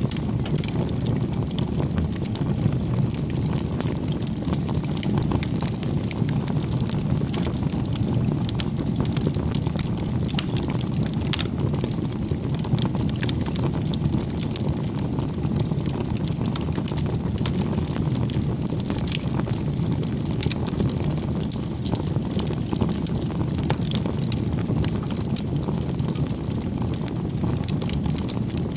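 Wood fire crackling: a steady low rush with frequent sharp pops and snaps scattered irregularly throughout.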